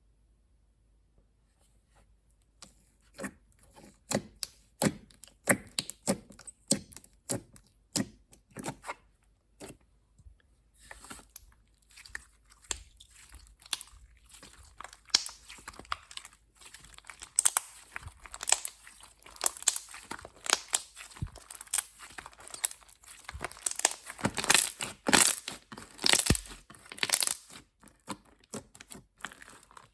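Slime being squeezed, poked and stretched by hand: sharp sticky pops and clicks begin about two seconds in, then thicken into fast, dense crackling in the second half.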